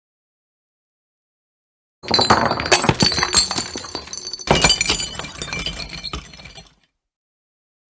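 Glass smashing twice, the second crash about two and a half seconds after the first, each followed by shards clinking and ringing as they scatter and settle.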